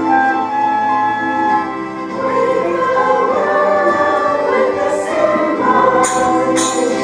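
A choir sings with instrumental accompaniment, holding sustained notes. Two sharp high hits come near the end.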